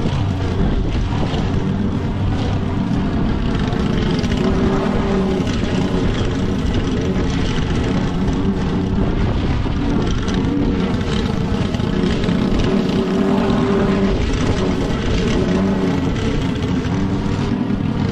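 Petrol lawn mower engine running steadily under load while cutting thick, wet grass, its pitch wavering slightly as the load changes.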